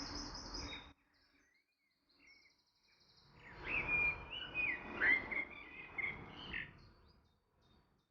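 Songbird singing: a brief high trill at the start, then a longer phrase of whistled notes sliding up and down, ending a little past two-thirds through, over a noisy background.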